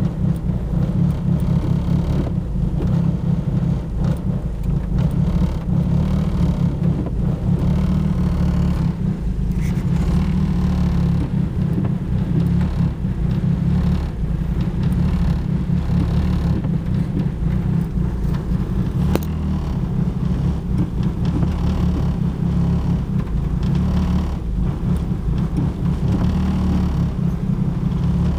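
Turbocharged Ford Focus engine running with a continuous low rumble whose level wavers. The owner reports a bad idle and a miss under boost that a new coil pack has not cured, and suspects the plug wires or the fuel injector on cylinder 2.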